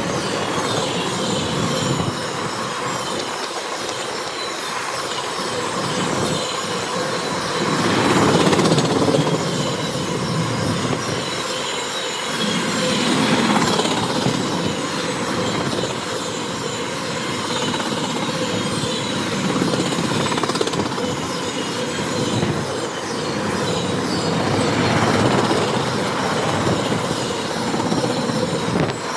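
CSX intermodal freight train's cars rolling past close by, a steady rumble of steel wheels on rail that swells and eases every few seconds as wheel sets go by.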